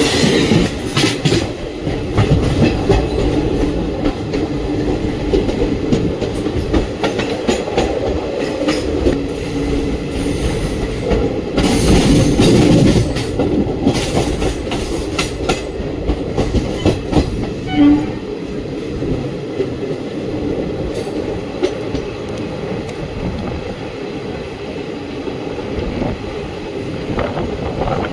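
Indian Railways ICF passenger coaches running along the track: a steady rumble with wheels clattering irregularly over rail joints, and a louder rush of noise about twelve seconds in.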